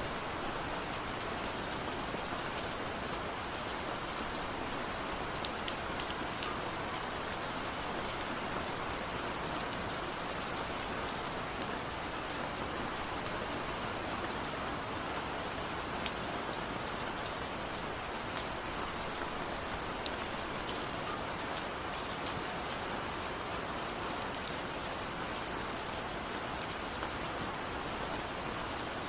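Steady rain falling, a continuous patter with many individual drops ticking sharply on nearby surfaces.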